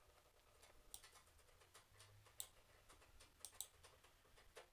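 Faint, irregular clicking at a computer, a handful of single clicks spread over a few seconds as keys and mouse buttons are pressed.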